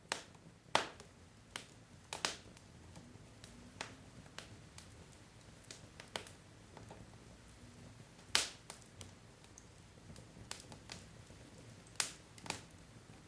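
Wood fire of burning logs crackling, with irregular sharp pops and snaps, several louder ones spaced seconds apart, over a low steady hiss.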